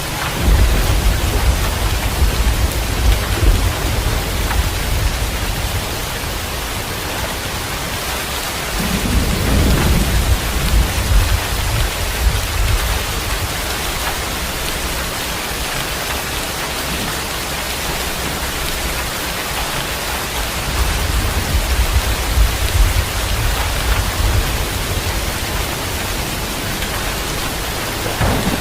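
Steady heavy rain with three long rolls of low thunder: one just after the start, one about nine seconds in, and one past twenty seconds.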